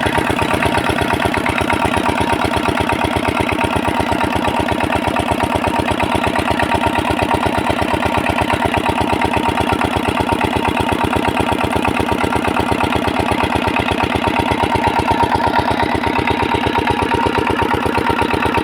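8 hp single-cylinder diesel engine driving a water pump, running steadily with an even, rapid chugging beat.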